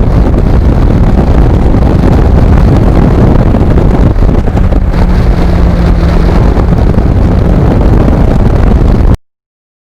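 Loud wind rush buffeting the microphone on a moving Kawasaki Ninja motorcycle, with the engine running underneath. It cuts off suddenly near the end.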